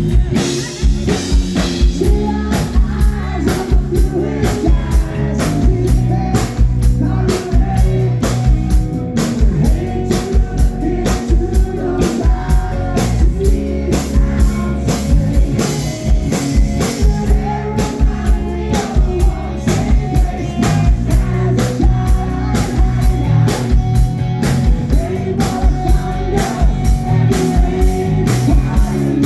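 Live rock band playing: a drum kit keeps a steady beat under guitars, with singing.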